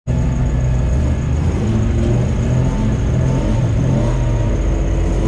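Bilcross race car's engine running steadily while the car waits stationary, heard from inside its stripped cabin, with a faint steady high whine above it.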